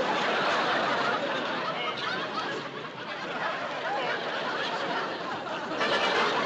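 Studio audience laughing in a long, sustained wave of many voices, which eases off briefly midway and swells again near the end.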